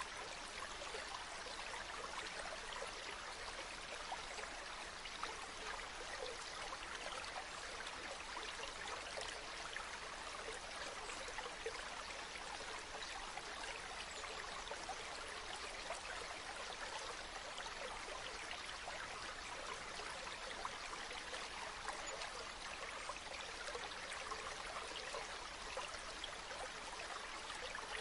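River water flowing steadily over stones: a continuous babbling rush with small splashes and trickles throughout.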